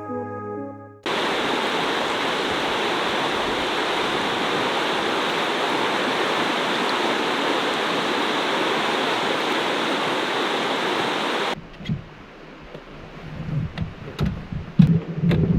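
Steady rushing of flowing water that cuts in suddenly and cuts off suddenly after about ten seconds, with a few knocks and a low hum near the end; guitar music fades out at the very start.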